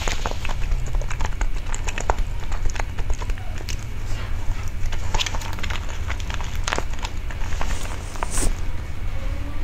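Close-miked chewing and mouth sounds of a person eating cake: frequent small wet clicks and lip smacks at an irregular pace, over a steady low rumble.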